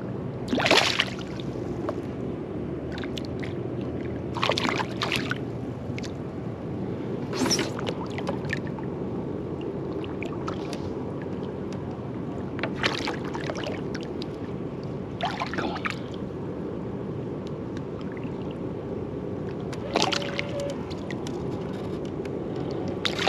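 Water sloshing and gurgling around a fishing kayak over a steady rush, with about six brief splashes at irregular moments.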